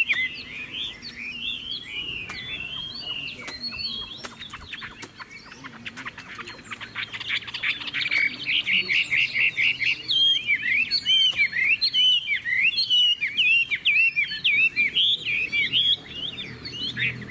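Chinese hwamei singing: a long, varied song of loud, rich whistled phrases that swoop up and down. Around the middle it breaks into a fast run of rapidly repeated notes, then goes back to varied whistling.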